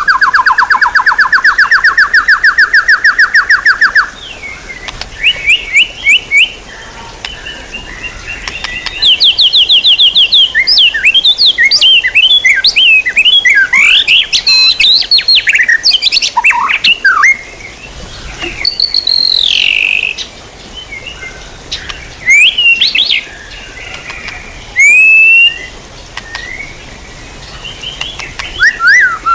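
Songbird song: a fast, loud rattling trill for about four seconds, then a varied run of chirps, slurred whistles and sweeping notes.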